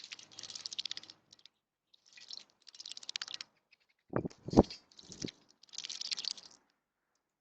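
A small bird splashing in a shallow bowl bath: repeated bouts of wing-fluttering splashes, each up to about a second long, with short pauses between. Two louder thumps come a little past halfway.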